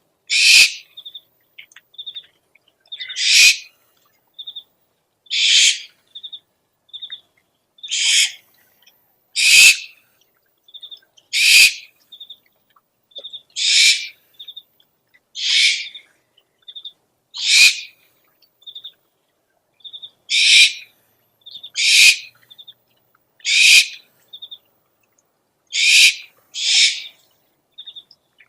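An owl screeching over and over, about a dozen harsh, hissing screeches roughly every two seconds, with short soft high peeps between them.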